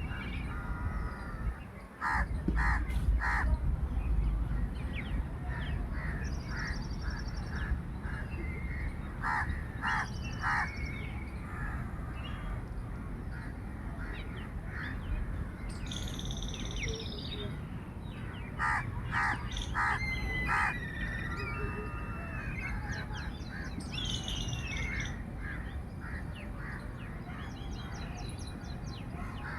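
Birds calling: groups of two or three short harsh calls every several seconds, with higher chirps and trills between them, over a low steady rumble.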